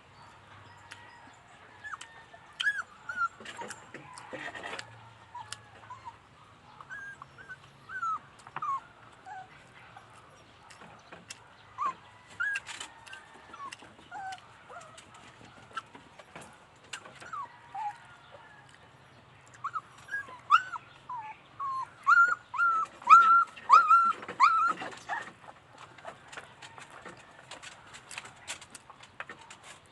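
A dog whining in short, high whimpers, scattered at first and then coming in a quick run of them about two thirds of the way through.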